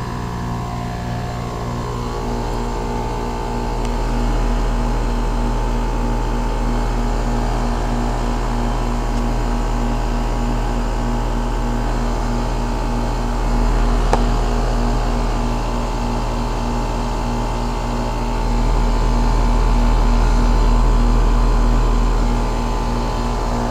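2001 Trane XE1000 Weathertron heat pump outdoor unit running in heating mode: a steady compressor hum and condenser fan, with its outdoor coil iced up and not yet defrosting. The low rumble swells louder about 4 s in and again near the end, and there is a single sharp tick about 14 s in.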